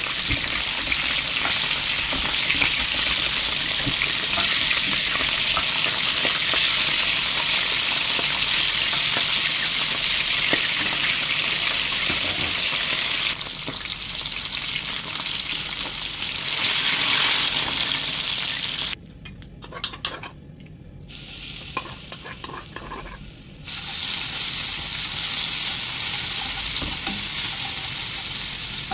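Green peppers sizzling in hot oil in a wok, a steady loud frying hiss with the scrape of a spatula stirring them. About two-thirds of the way through the sizzle dies down to a few soft clicks for some seconds, then loud frying resumes as chopped vegetables fry in fresh oil.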